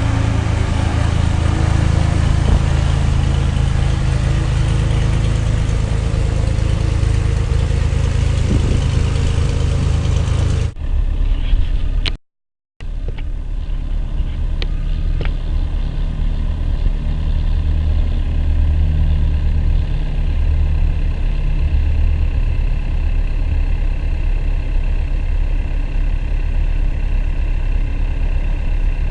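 An engine running steadily with a low hum. About 11 s in the sound changes abruptly, drops out completely for about half a second, then the steady engine hum carries on with a faint high whine.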